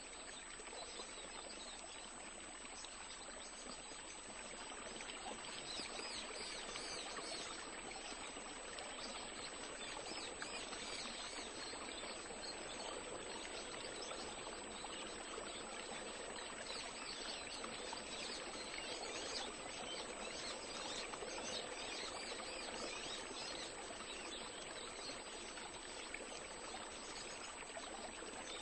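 Faint, steady wash of water lapping at a sand and mud shoreline, with a thin, steady high-pitched whine over it.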